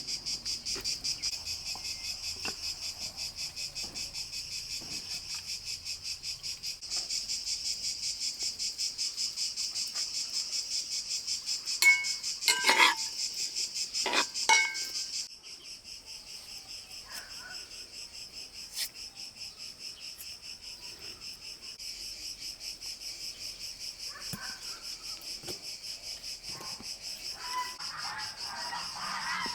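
Crickets chirping in a steady, fast-pulsing trill. A few sharp knocks sound about halfway through.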